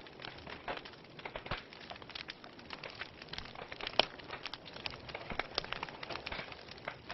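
Wood fire burning in a fireplace: logs crackling with irregular sharp pops over a soft hiss of flames, one louder pop about four seconds in.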